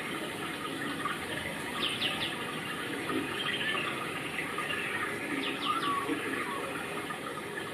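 Steady rain falling. A bird chirps a few quick high notes about two seconds in and again near the middle.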